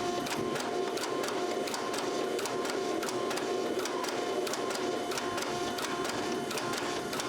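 Rapid, evenly spaced metal strikes, about five a second, with a steady ringing tone: steel being hammered in knife forging.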